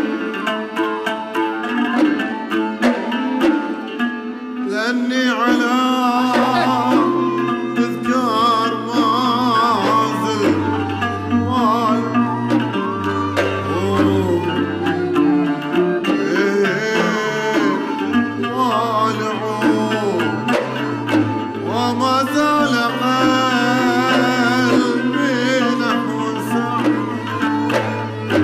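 Bahraini sawt song performed by a traditional ensemble: an instrumental passage with sharp percussion strokes, then from about five seconds in a voice sings over the accompaniment.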